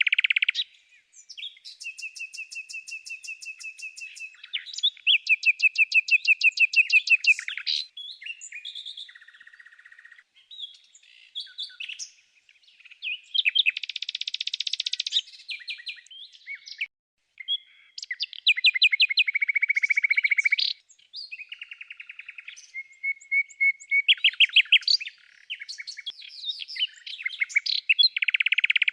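A songbird singing a long, varied song of fast repeated notes and trills, phrase after phrase with short gaps between them.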